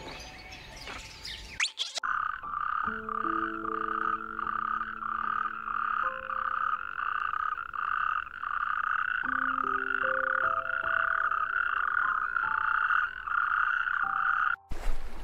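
Asian common toad calling: a long trill of rapid pulses that starts about two seconds in and stops shortly before the end, over soft sustained music notes.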